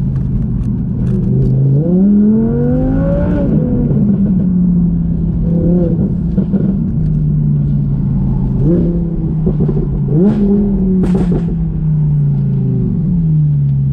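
Audi R8 V10 Plus's V10 engine through a Quicksilver active titanium and stainless exhaust with an X-pipe, pulling steadily and rising in pitch as it accelerates about two seconds in and again around nine and ten seconds in, then dropping back in pitch near the end.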